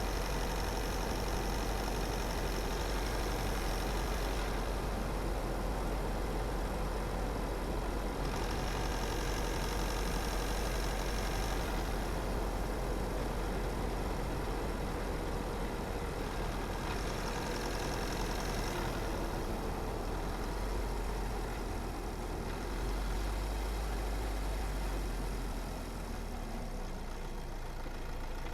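Car driving along a road: steady engine and tyre noise, a little quieter near the end.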